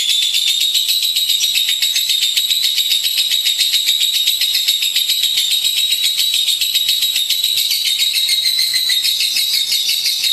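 Lovebird giving a long, unbroken, high-pitched chattering trill of very rapid repeated notes.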